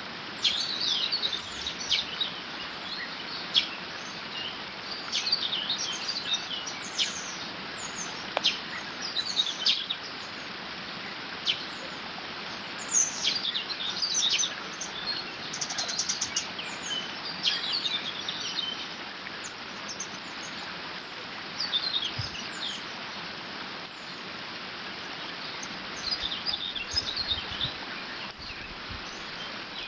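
Songbirds singing in frequent short, rising and falling phrases, one with a rapid trill about halfway through, over the steady rush of water running through a beaver dam.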